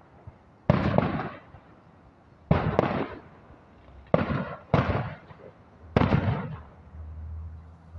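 Distant aerial fireworks shells bursting: five sharp booms, each trailing off over about a second, the fourth coming close behind the third. A low steady hum sets in near the end.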